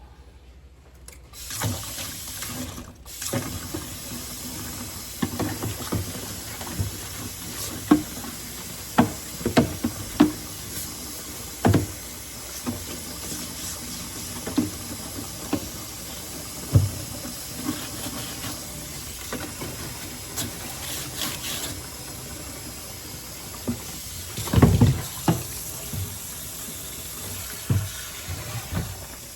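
Kitchen tap running steadily into a sink, starting a second or so in, with repeated knocks and clatters of things being handled under the water and a louder clatter near the end.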